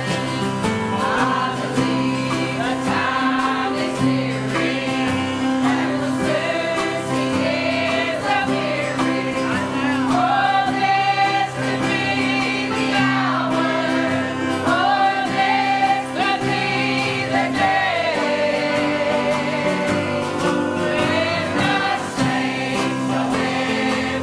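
Choir singing a gospel song over steady instrumental accompaniment with sustained chords and a bass line.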